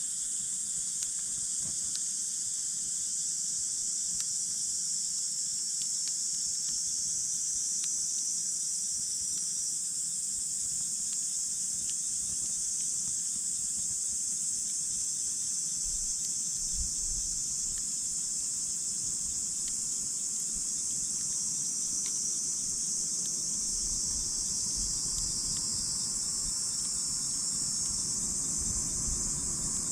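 Steady high-pitched chorus of insects, like crickets, with a wood campfire crackling faintly now and then beneath it.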